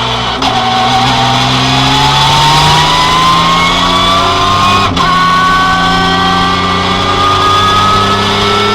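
Rally car engine accelerating hard through the gears. Its pitch climbs steadily, drops sharply at an upshift about half a second in and again about five seconds in, then climbs again.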